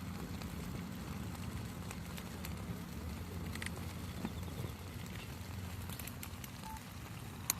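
Campfire crackling: scattered sharp pops and snaps over a low steady rumble, with one louder pop near the end.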